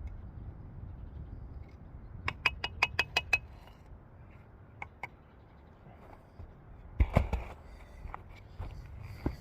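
A steel trowel tapping a brick down into its mortar bed: a quick run of about seven ringing taps a little after two seconds in, a few single taps, then a heavier cluster of knocks about seven seconds in, over a low steady rumble.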